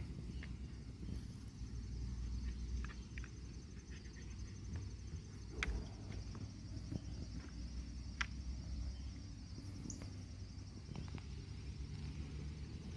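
Outdoor ambience: a steady high-pitched insect chirring over a low rumble, with a few scattered sharp clicks, the clearest about halfway through and another a little later.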